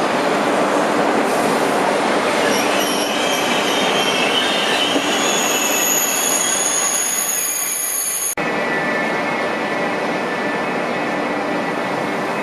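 TGV high-speed trainset rolling slowly along a station platform, with high-pitched wheel squeal from about five seconds in. The sound cuts off abruptly about eight seconds in and is replaced by the steady running noise of another passenger train moving alongside the platform, with a faint steady whine.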